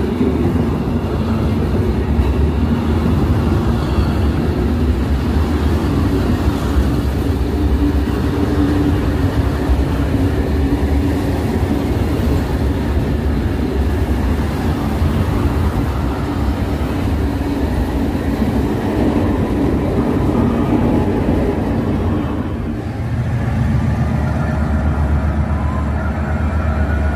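A passenger train passing close and slowly, with a steady rumble of its engine and wheels. About 22 seconds in, the sound changes to a different steady train rumble with some higher tones.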